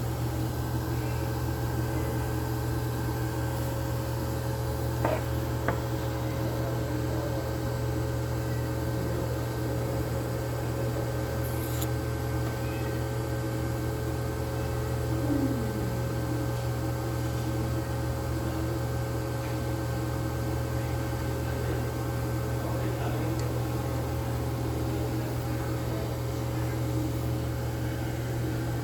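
A steady mechanical hum, like a running motor or fan, with a few faint clicks over it.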